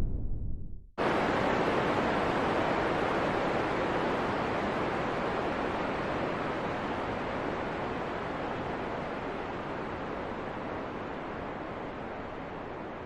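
Wind sound: a deep low rumble fades out in the first second. Then a steady rushing hiss of wind starts abruptly and slowly fades.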